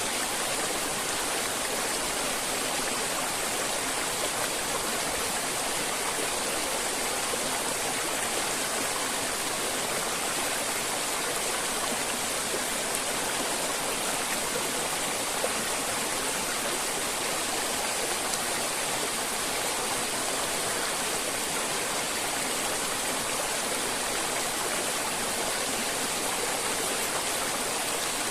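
River water flowing and rushing steadily, an even, unbroken wash of water noise.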